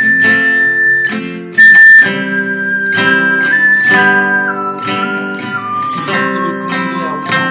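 Ocarina playing a slow melody over acoustic guitar accompaniment. A loud high note sounds about two seconds in, then the tune steps down and settles on a long held lower note near the end.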